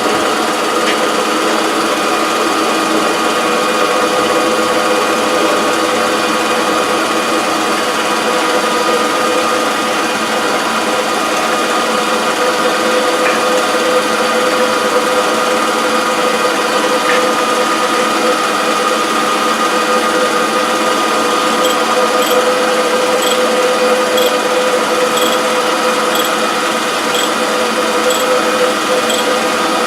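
Surface grinder running with its hydraulics switched on, not yet grinding: a steady mechanical whine with two held tones. A faint regular ticking, a bit more than once a second, joins in about two-thirds of the way through.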